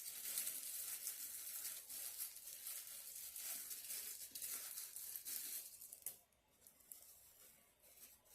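Crinkling and rustling of takeout food packaging being handled: a dense crackle that dies down about six seconds in.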